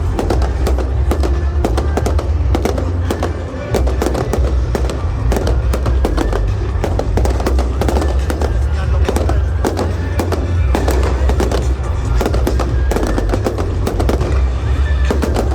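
Fireworks bursting and crackling in rapid, dense succession, with music playing under them that has a steady heavy bass.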